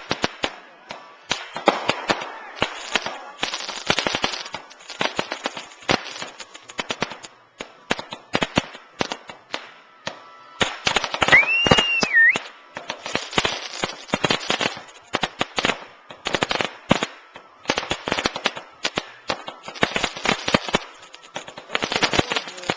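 Fireworks going off: rapid, dense bangs and crackling in clusters, with a brief rising-then-falling whistle about halfway through.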